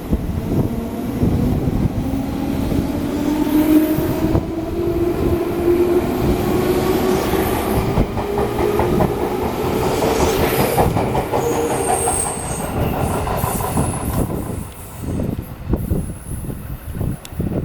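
JR East 205 series electric multiple unit pulling away: the whine of its DC traction motors climbs steadily in pitch as the train gathers speed, with the wheels clattering over the rail joints in a rhythm that fades as the train passes off.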